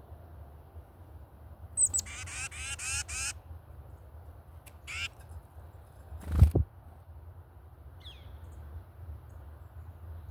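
Harsh bird calls: a quick series of about six rasping notes, then one more call a couple of seconds later and a brief chirp near the end. A loud low thump about six seconds in stands out above them, over a steady low rumble.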